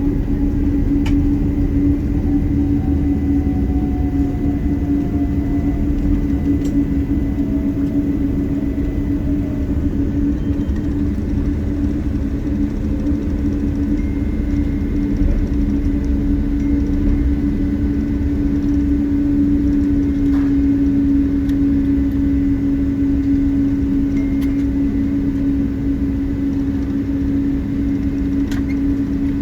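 Boeing 777-200 cabin noise, heard from a passenger seat: a steady loud engine hum over low rumble, with a fainter whine that falls in pitch over the first several seconds.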